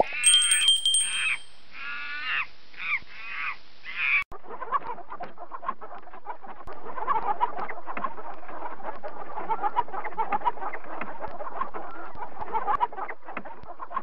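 A flock of chickens clucking: a dense, continuous chatter that starts abruptly about four seconds in. Before that, a bird gives a series of loud, arching calls.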